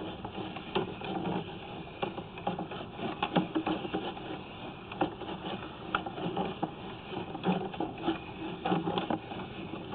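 Sewer inspection camera's push cable being fed down a drain pipe, with irregular clicks and rattles as the cable and camera head knock along the pipe.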